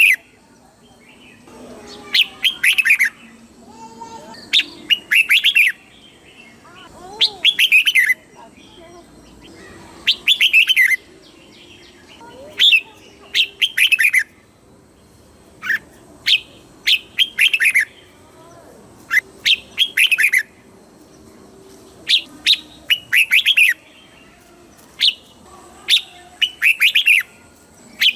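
Red-whiskered bulbul singing: short, loud phrases of quick falling notes, repeated over and over with gaps of a second or two.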